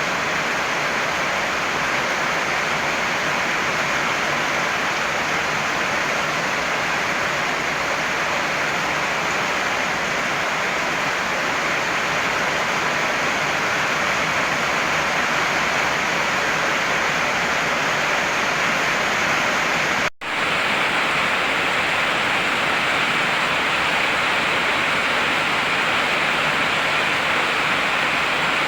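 Heavy rain falling steadily, a dense even hiss. It cuts out for a split second about two-thirds of the way through, then carries on unchanged.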